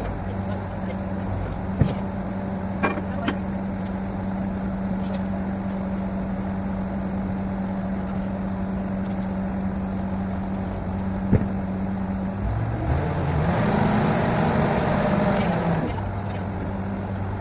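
Borewell drilling rig's engine running steadily with a low hum and a few sharp clicks. About thirteen seconds in it runs harder for roughly three seconds, its pitch rising and then falling under a rushing noise, before settling back to the steady hum.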